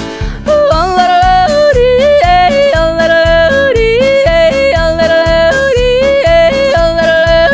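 A singer yodeling in quick leaps between low and high notes over a steady, bouncy musical accompaniment.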